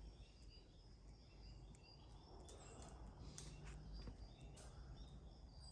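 Near silence: faint outdoor background with scattered faint bird chirps and a few light clicks.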